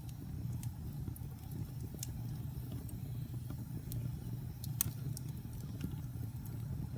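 Wood fire burning in a fireplace: scattered sharp crackles and pops over a steady low rumble. The loudest pop comes nearly five seconds in.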